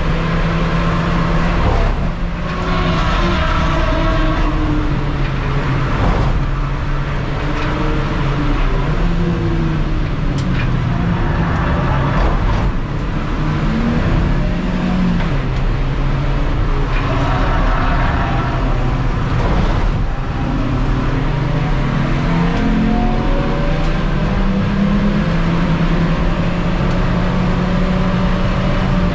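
Ford Ka race car's four-cylinder engine heard from inside the cabin at racing speed, its pitch rising and dropping again and again as it runs up through the revs and changes gear, over steady road noise.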